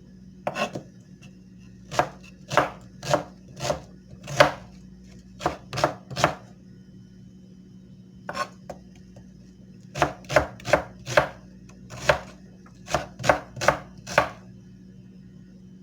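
Short, sharp strokes of a knife blade, in runs of three to six at about two a second with pauses between the runs.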